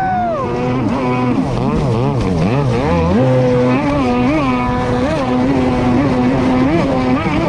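Stand-up jet ski's two-stroke engine running under way, its pitch rising and falling over and over as the throttle is worked.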